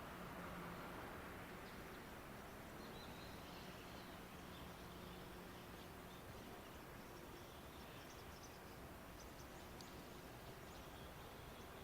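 Near-quiet ambience with faint, scattered bird chirps and a faint low hum that fades out about halfway through.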